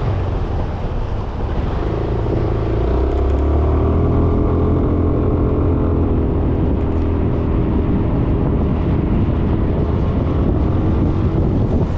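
Suzuki Burgman 400 scooter's single-cylinder engine running under way, with wind on the microphone. About two seconds in, an engine note grows louder and then holds steady for several seconds.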